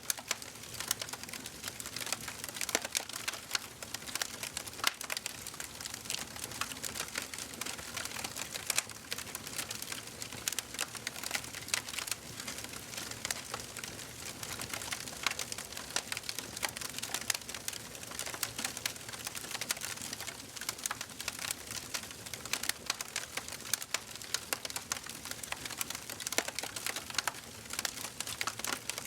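Wood fire burning in a fireplace, with dense, irregular crackles and pops over a steady hiss.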